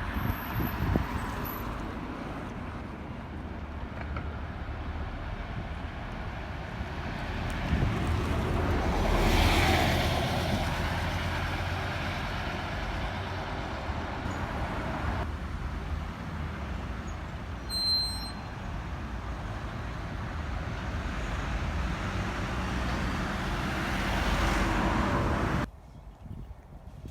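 Road traffic, with vehicles passing close by: two louder swells, about a third of the way in and again near the end. The sound drops away abruptly just before the end.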